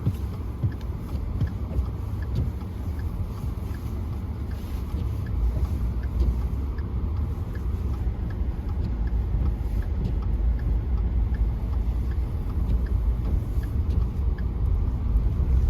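Car interior road noise while driving: a steady low rumble of tyres and engine that grows louder about five seconds in, with a faint regular ticking.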